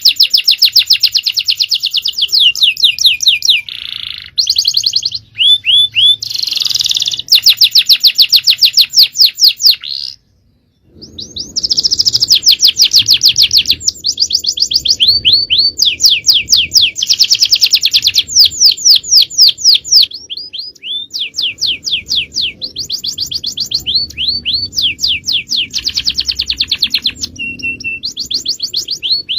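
Male domestic canary singing long runs of fast trills: rapid repeated notes and short sweeping phrases, with a brief pause about ten seconds in.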